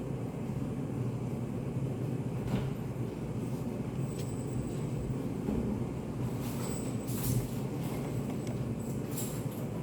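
Study cafe room ambience: a steady low hum with a few faint clicks and short rustles, the loudest of them about seven seconds in.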